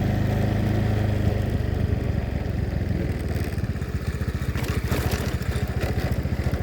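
A small engine running, smooth for about two seconds and then settling into an even, rapidly pulsing idle.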